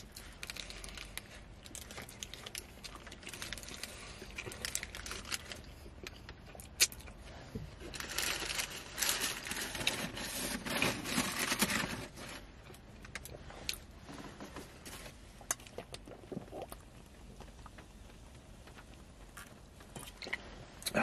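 Close-up mouth sounds of a man chewing a beef gyro, with its paper wrapper crinkling and many small wet clicks, in uneven clusters.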